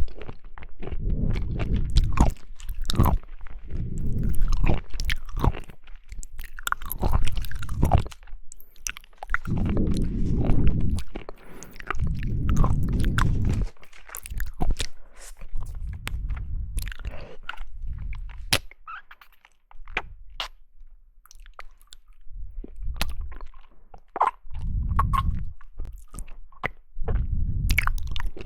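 Close-miked chewing and biting of jelly, with crunchy, wet clicks and smacks in irregular bursts separated by short pauses. The chewing quietens for a few seconds past the middle, then resumes.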